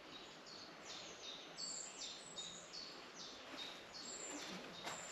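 A small songbird singing faintly: a run of short, high two-part notes, each dropping in pitch, repeated about two to three times a second, over quiet woodland ambience.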